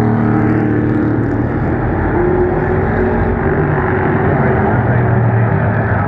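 A field of Pro Truck race trucks' engines running at speed on an oval, a loud steady drone of several engines at once, their pitches drifting up and down as the trucks go around.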